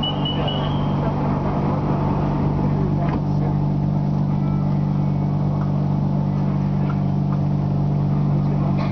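BTS Skytrain car standing at a station platform: a steady electrical hum from the train's onboard equipment. Rapid high door-warning beeps stop about half a second in.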